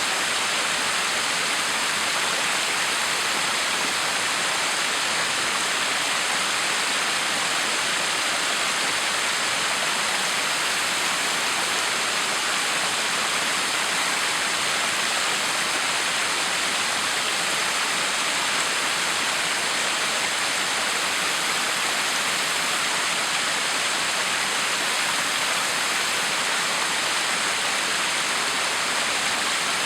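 Backyard waterfall: water falling and splashing in a steady, unbroken rush.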